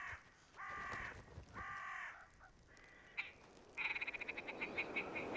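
Willow ptarmigan calling: three harsh, nasal calls about half a second each, then a fast rattling run of clipped notes from a little past three seconds in.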